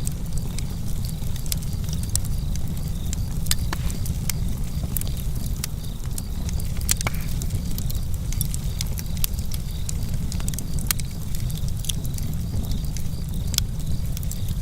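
Wood campfire burning: sharp irregular crackles and pops over a steady low rumble of the flames, with crickets chirping in an even, repeating pulse.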